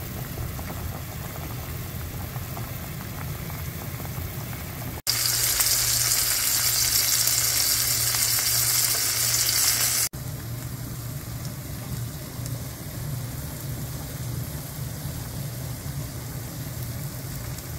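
Pot of beef and radish soup boiling for about five seconds, then a sudden cut to loud sizzling of meat-and-vegetable patties (donggeurangttaeng) frying in oil in a nonstick pan. About ten seconds in it cuts abruptly to a quieter sizzle as the patties brown.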